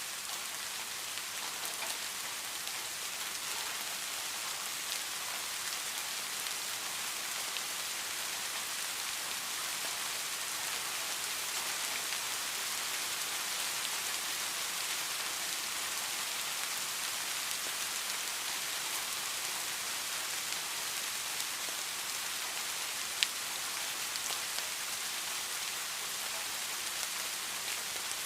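Steady rain falling, an even hiss with scattered drops ticking, and one sharper click late on.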